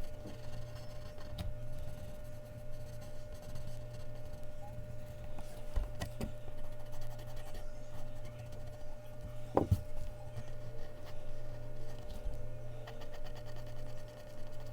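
Mechanical pencil scratching on Bristol paper in short drawing strokes, with a couple of light knocks about six and ten seconds in.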